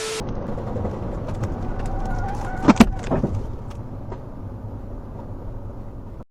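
A motor vehicle's engine running steadily, with a short, sharp cry or squeal about three seconds in.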